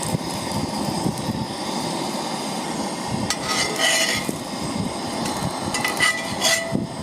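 Metal utensil clinking and scraping against a cast iron pan a few times, over a steady hiss from the cooking.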